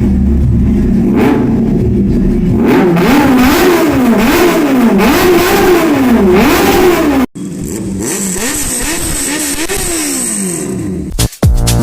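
Kawasaki ZX-10R inline-four through a Racefit aftermarket exhaust, revved again and again so the engine note repeatedly rises and falls. After a sudden cut about seven seconds in, a quieter run of revs follows, ending in a falling pitch as it comes off the throttle.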